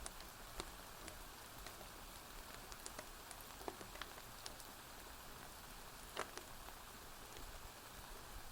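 Steady rain hiss with scattered sharp pops from a crackling wood fire. The loudest pop comes about six seconds in.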